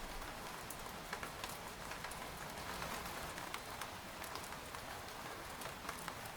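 Steady rain falling on a tent, a continuous patter with scattered sharper individual drops striking the fabric.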